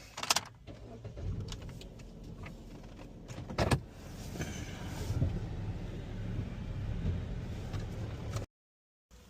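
Scattered knocks and clatter of hands working inside a car around the dash, with one sharp knock near the start and a louder one a little past the midpoint, over a low steady hum. The sound drops out completely for about half a second near the end.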